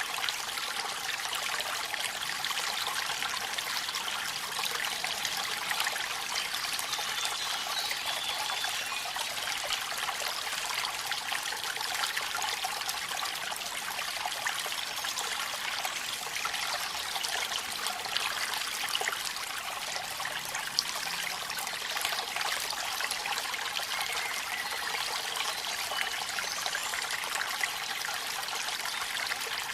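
Water of a small waterfall or stream trickling and splashing, a steady bright hiss with little low rumble.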